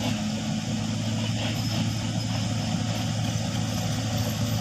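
A truck engine running steadily with an even low drone and no change in pitch.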